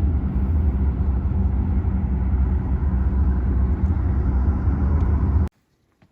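Steady low rumble of a motor vehicle running, which cuts off abruptly about five and a half seconds in.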